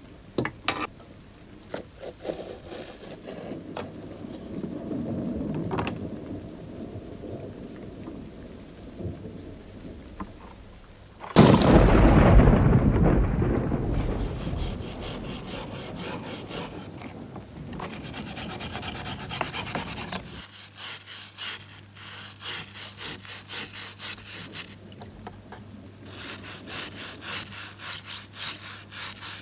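A hand tool worked back and forth against the workpiece: runs of rhythmic scraping strokes, about three a second, louder in the last few seconds. Before the strokes, about a third of the way in, there is a sudden loud rushing thump that fades over a few seconds.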